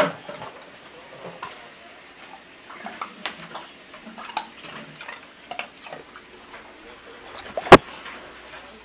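A dog playing with ice cubes: scattered clicks and clatters of ice, with one loud knock near the end.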